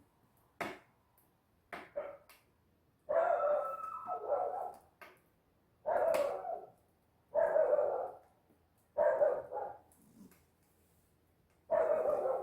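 A dog barking in about five separate bouts, with a few sharp clicks before the first one.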